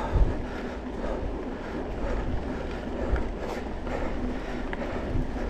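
Wind rushing over the microphone and tyres rolling on a dirt trail during a mountain bike ride, with a sharp thump just after the start.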